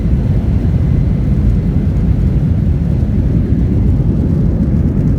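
Steady low rumble of a Boeing 737-800's jet engines, heard from inside the passenger cabin.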